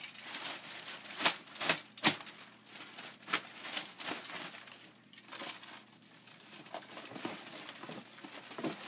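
Plastic packaging wrap crinkling and crackling as it is handled and cut open, in irregular sharp crackles, loudest in the first few seconds and sparser near the middle.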